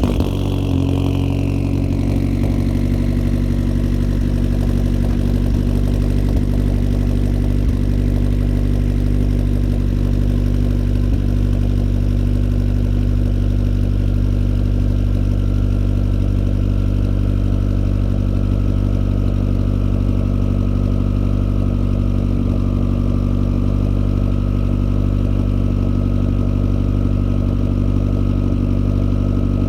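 Engine idling steadily just after a cold start, with a high whine that falls in pitch over the first couple of seconds.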